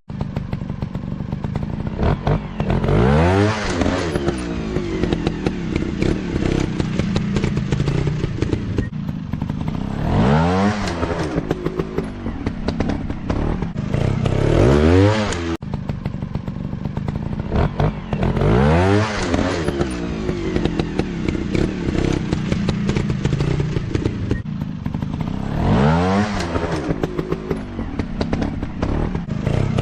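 Dirt bike engines running and revving hard, the pitch climbing in sharp rising sweeps about six times over a continuous engine drone, with some clatter.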